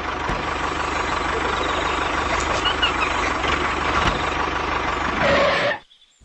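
A large vehicle's engine running steadily with a dense noise over it, cutting off suddenly near the end.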